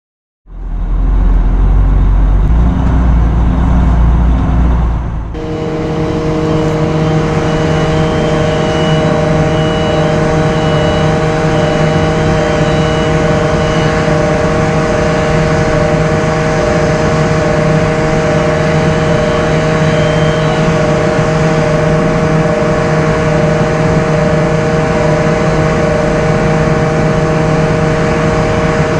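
Semi truck on the road: a heavy low rumble for the first five seconds, then, after a sudden change, a steady engine drone with a constant hum.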